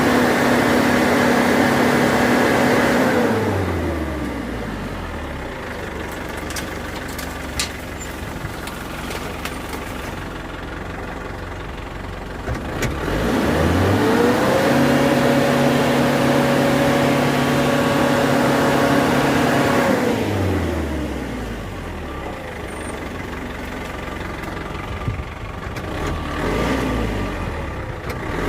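Isuzu Traga pickup's diesel engine revved hard and held high for several seconds before dropping back to idle, twice, rising again near the end, as the stuck truck strains to pull through mud.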